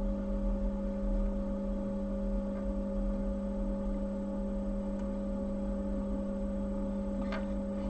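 Steady electrical hum, an even drone with two clear pitches and no other events.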